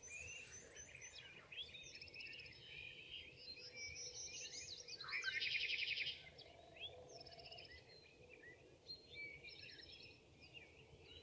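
Several wild birds calling together, a mix of short chirps and trills. The loudest is a fast, dense trill about five seconds in.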